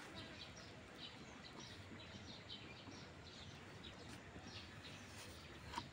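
Faint ambience of small birds chirping, with repeated short high chirps over a low, steady background rumble. There is a brief soft click near the end.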